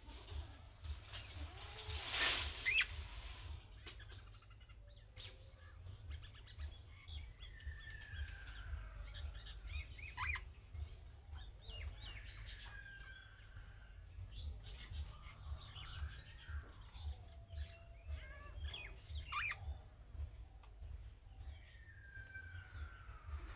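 Budgerigars chirping and calling, with several drawn-out whistles that slide down in pitch and scattered short chirps. A loud noisy burst about two seconds in.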